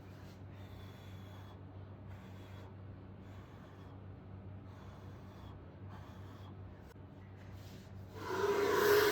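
Soft breathing puffs close to the microphone, about one a second. About eight seconds in, a blower motor switches on, with a loud rush of air and a steady whine.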